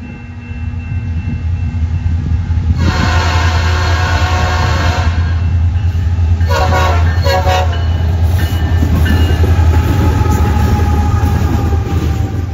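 Diesel freight locomotives approaching and passing, engines rumbling and growing louder. The horn sounds a long blast about three seconds in, then two short taps as the lead locomotive comes by, a greeting to the trackside watcher. The rolling rumble of the freight cars follows.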